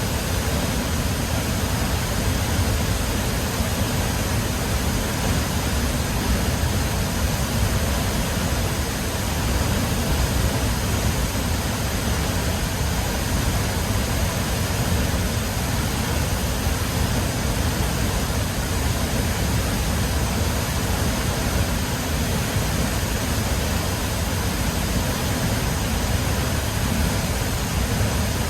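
Catarata Río Fortuna, a powerful waterfall, pouring without pause: a dense, steady rushing noise, heaviest in the low rumble.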